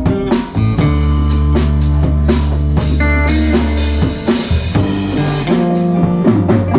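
Live rock band playing: electric guitar over drum kit and bass, with regular drum hits and long held bass notes.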